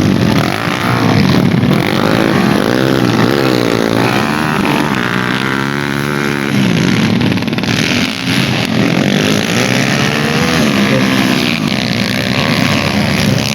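Motorcycle engines revving on a dirt track, their pitch rising and falling as the bikes accelerate and back off.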